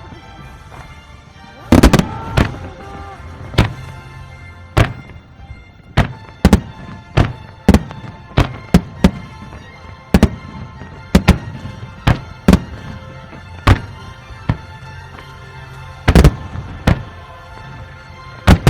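Fireworks bursting in sharp bangs at irregular intervals, many in quick succession through the middle, over background music.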